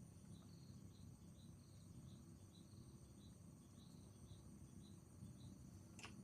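Faint insect chirping in the background, a short high chirp repeated about three times a second over a steady high-pitched insect drone, with a single sharp click near the end.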